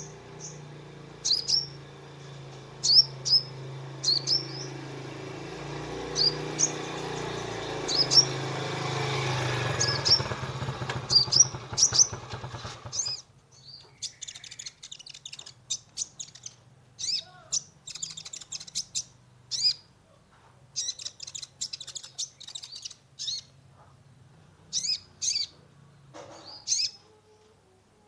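Kolibri ninja (sunbird) chirping: short, sharp, high upward-sweeping chirps repeated every second or so. About halfway a steady low hum under them cuts off suddenly, and the chirping turns into quicker, denser chatter.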